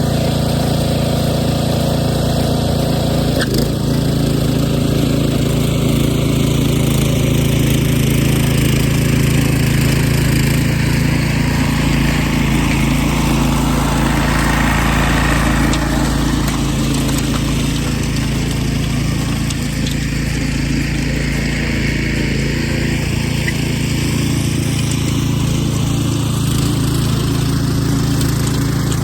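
Small gasoline engine of a garden tiller running steadily.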